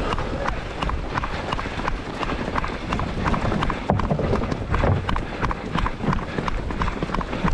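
A runner's footsteps striking the road at a steady pace, about three a second, over a low rumble of wind on the microphone.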